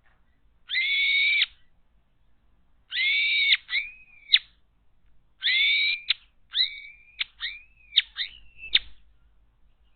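A wild bird calling loudly: three drawn-out, strained whistled calls, the second and third each followed by a quick run of short downward-sliding notes.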